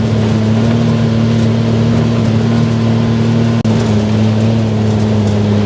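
Off-road buggy's engine running at a steady pitch while driving, with a momentary dropout about three and a half seconds in.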